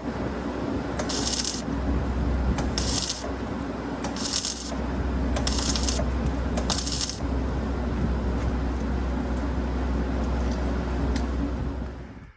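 Angle grinder running against the steel of a scraper apron, grinding out a crack, with a steady motor hum and several brief brighter scraping bursts in the first half as it bites. It stops shortly before the end.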